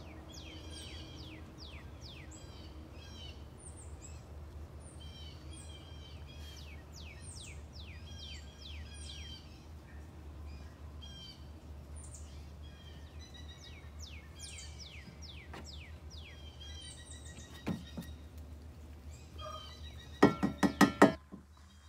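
Small birds chirping over and over in quick, downward-sweeping calls over a steady low hum. Near the end come a rapid run of about six loud knocks, and a single knock a few seconds before them.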